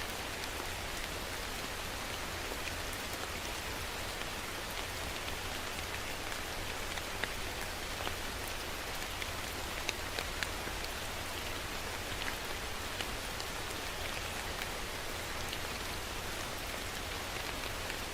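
Steady rain falling on a surface: a constant hiss with individual drops ticking sharply over it, scattered irregularly.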